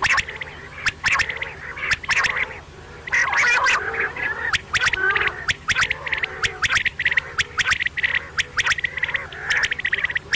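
Quail calling over and over in short, fast-pulsed, rattling bursts, one after another with little pause, mixed with sharp clicking notes.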